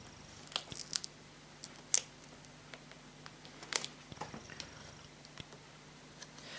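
Scattered small clicks and crinkles of hands and a plastic pry tool working at a laptop screen's edge against its adhesive tape, with two sharper clicks about two seconds and nearly four seconds in.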